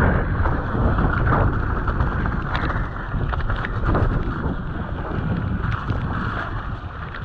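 Wind buffeting the microphone as a mountain bike descends a bike-park trail. Scattered knocks and rattles come from the bike running over rough ground.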